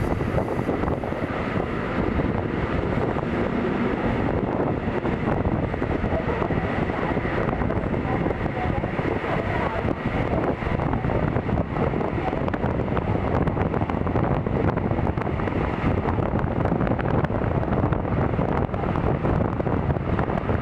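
Passenger train running at speed, heard from inside the coach: a steady, even rolling rumble and rush of wheels on track and air.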